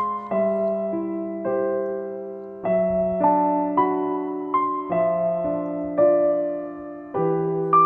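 Background music: slow, gentle piano or electric piano playing sustained chords and a simple melody.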